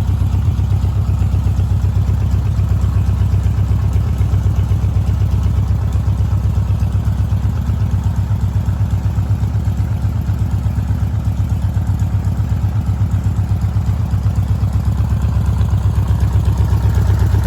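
Volkswagen trike's 1972 VW 1600 air-cooled flat-four engine idling with a steady, even throb, getting slightly louder near the end.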